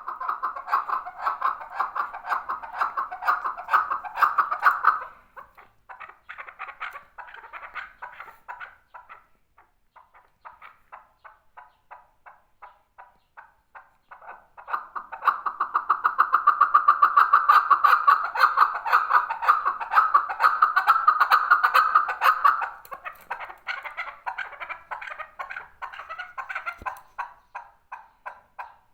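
Male chukar partridge calling: long series of rapid, repeated clucking notes, loud for the first five seconds and again through the middle, with quieter runs between.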